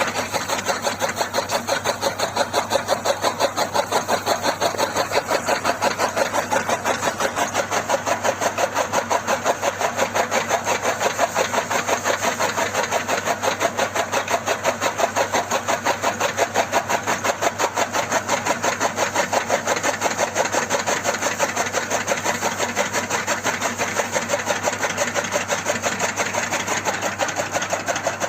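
Small machine motor running steadily with a fast, even pulse, like the drive of a mini model tractor chaff cutter.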